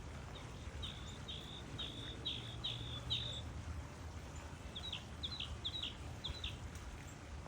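A bird calling: a run of six short notes, each dropping in pitch, then after a pause a run of four more.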